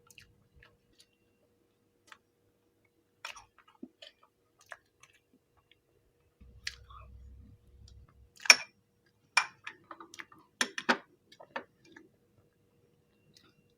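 Close-miked eating sounds: sporadic wet mouth clicks and lip smacks while chewing, with a cluster of louder sharp smacks about two thirds of the way through.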